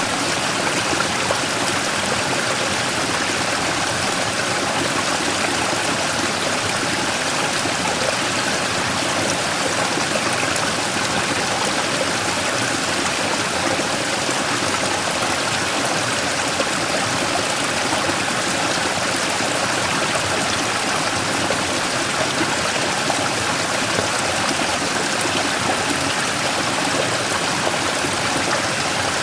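Mountain stream splashing and running over a large rock in a small waterfall, a steady, unbroken rush of water.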